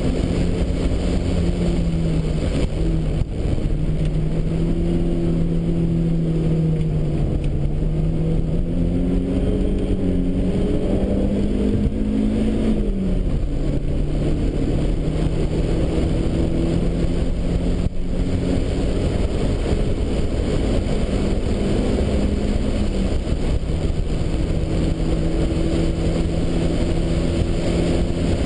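Nissan Bluebird Turbo race car's turbocharged four-cylinder engine heard from inside the cabin, running hard on track. The engine pitch climbs steadily and then drops sharply about halfway through, as at an upshift. It holds level and drops again about two-thirds of the way in, over a constant rumble of road and wind noise.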